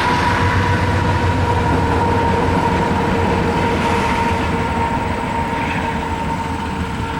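Union Pacific train cars rolling past on the rails: a steady, loud rumble with a steady ringing tone through it, easing off slightly near the end.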